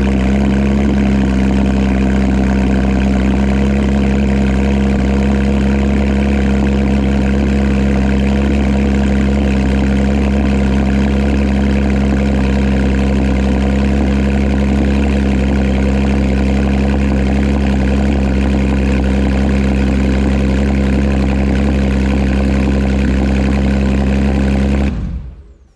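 Porsche 911 GT3 RS flat-six engine idling steadily just after a cold start, then switched off near the end, the sound dying away quickly.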